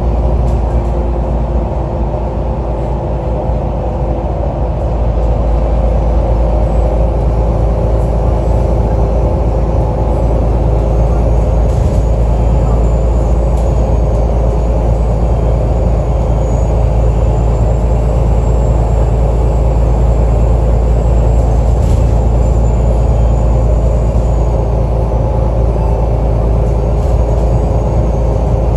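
Alexander Dennis Enviro 500 double-decker bus running with a loud, steady low engine drone carrying several held engine tones. A faint high whine sits above it from about ten seconds in, fading near twenty-five seconds and returning near the end.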